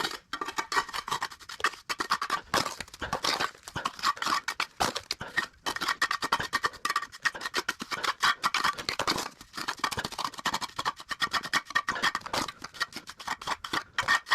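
A steel trowel scraping through cement mortar in quick repeated strokes, several a second.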